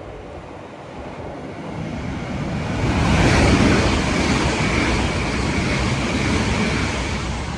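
LNER Azuma train passing at speed, its noise building over about three seconds to a loud rush of wheels and air with a steady high whine.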